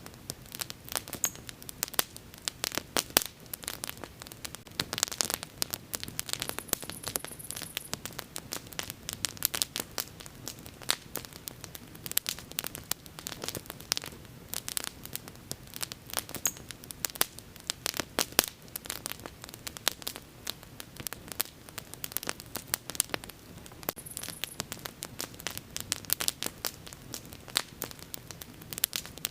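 Wood bonfire crackling, with dense irregular sharp snaps and pops over a soft, steady hiss of burning. Twice there is a short, high hiss.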